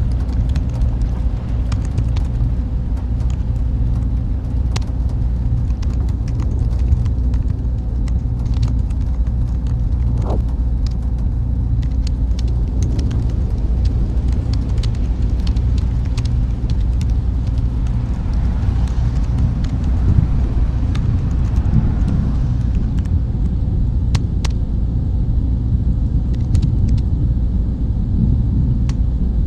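Steady, loud low rumble of continuous masking noise, with faint scattered clicks over it.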